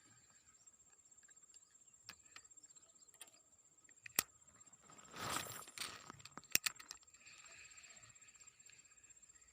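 Fishing rod being cast: a sharp click, then a short swish about five seconds in, followed by two sharp reel clicks.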